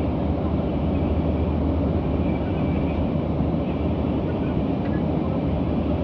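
Steady low rumble of a Boeing 737's jet engines and airflow, heard from inside the passenger cabin in flight.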